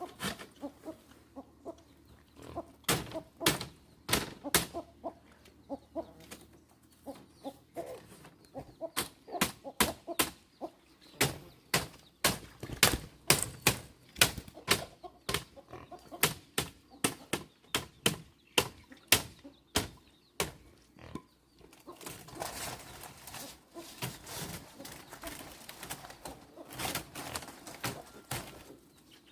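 A long series of sharp knocks at an uneven pace, a few a second, with rustling building up in the later part.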